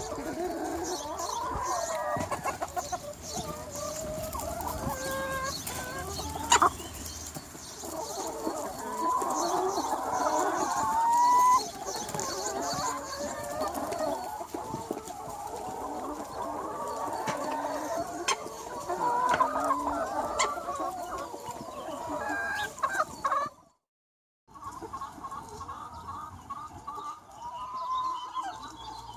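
A large free-range flock of chickens clucking and calling over one another. The sound cuts out abruptly for about a second near the end, then resumes.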